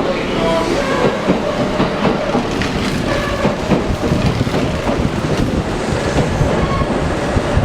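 Kintetsu Nara Line electric train running, its wheels clattering over rail joints in a steady stream of clacks.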